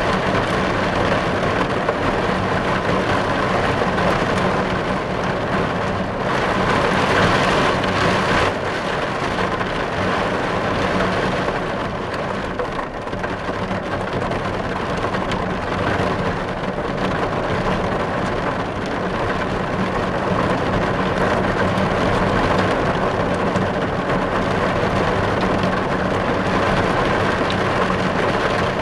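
Heavy rain drumming steadily on a car's windows and roof, heard from inside the car as a dense, even patter, swelling slightly for a few seconds near the start.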